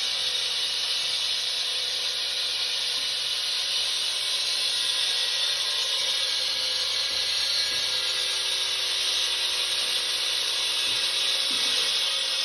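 Handheld concrete saw running steadily, a high-pitched noise that holds an even level throughout.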